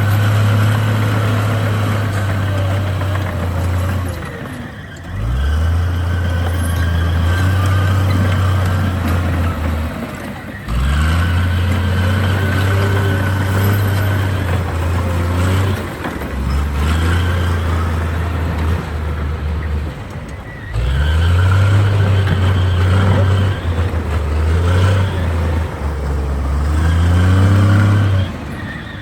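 Diesel engine of heavy earthmoving machinery working under load, its drone dipping briefly and coming back up about every five or six seconds as the engine speed changes.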